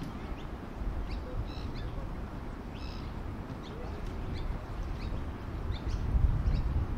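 Small birds chirping in short, high calls scattered throughout, over a low rumble that swells briefly near the end.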